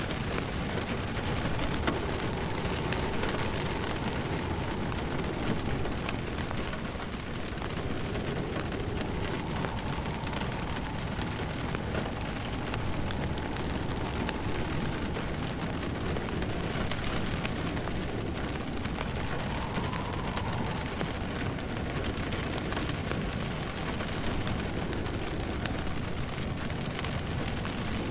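Steady rain falling on surfaces, mixed with the crackle of a wood fire burning in a fireplace, running at an even level throughout.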